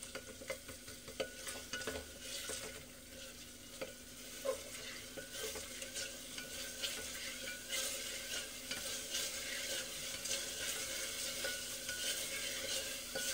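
Onion-tomato masala with green chilli frying and sizzling in an open aluminium pressure cooker, while a spatula stirs it with repeated small scrapes and knocks against the pot.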